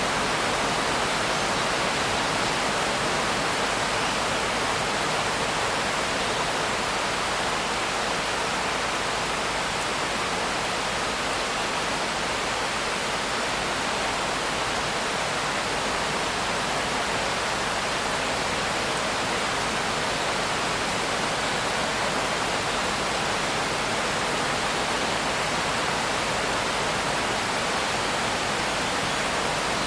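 Steady rain: a dense, even hiss, with no single drops or other events standing out and no change in level.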